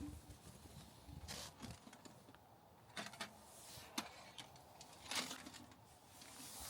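Faint, scattered rustling and scraping noises, with a sharp click about four seconds in.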